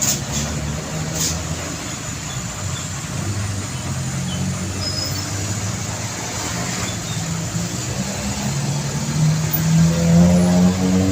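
Heavy truck engine running at low revs, with two sharp knocks in the first second or so. Near the end the engine note rises as it revs up.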